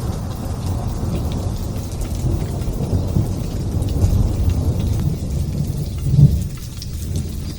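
Thunder rumbling in long rolls over steady light rain. The rumble swells to a peak about six seconds in, then dies down, leaving the patter of raindrops.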